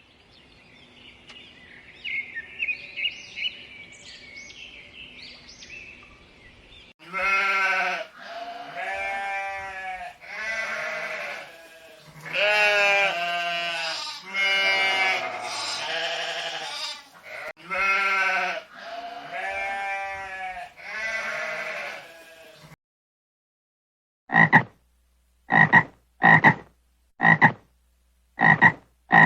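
Faint high chirping at first, then sheep bleating in a series of long, wavering calls for about fifteen seconds. After a short pause, a frog croaks in short, evenly spaced calls, a little over one a second.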